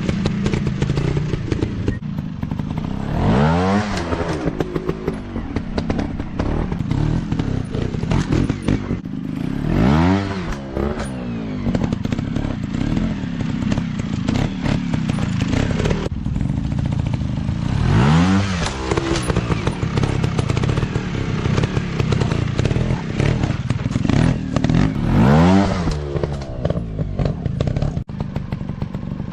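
Dirt bike engines running with a rough, clattery idle, revved up sharply and let fall back four times, roughly every seven seconds.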